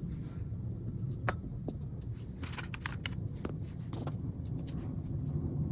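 Scattered light clicks and taps of small parts and tools being handled, over a steady low rumble.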